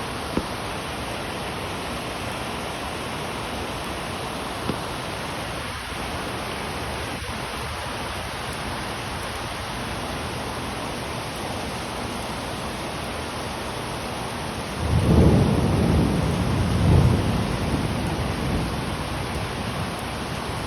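Steady rain falling in a thunderstorm. About fifteen seconds in, a thunderclap breaks suddenly and rumbles on for several seconds, swelling twice before fading back under the rain.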